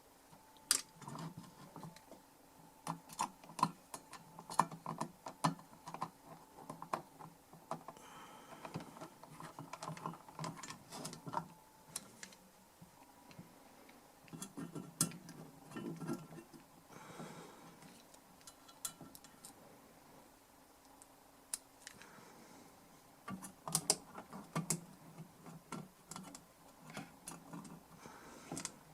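Screws being driven into a DI box's metal housing with a screwdriver while it is handled, making irregular small clicks and light metal clatter.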